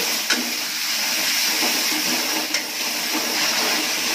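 Onion-and-spice masala paste sizzling and hissing in hot oil in a metal kadhai as it is stirred with a metal ladle, which scrapes against the pan twice. The masala is being fried with a little water added so that it doesn't burn.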